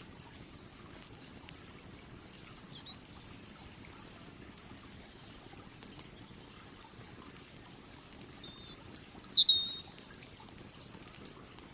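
Steady flowing creek water with sparse faint crackles of burning firewood. A bird calls twice: a short run of high chirps about three seconds in, and a louder call about nine seconds in.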